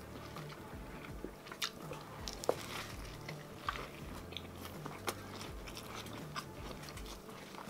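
A man biting into a giant chicken sandwich with lettuce and chewing it, with scattered small wet clicks and crunches.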